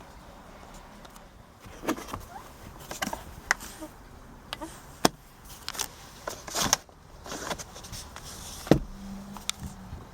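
Clicks and knocks of switches and trim being handled inside a car cabin. After a louder click near the end comes a steady low hum for about a second, like a small electric motor.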